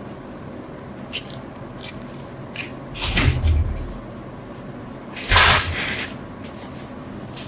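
Objects being handled on a workbench: a few light clicks, then two louder knocks, each with a brief rushing scrape, about three and five seconds in.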